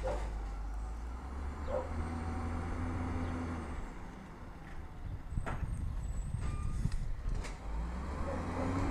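Peterbilt 320 automated side-loader garbage truck running with a steady low engine rumble. The rumble eases about four seconds in, then returns rougher, with a couple of sharp metallic knocks.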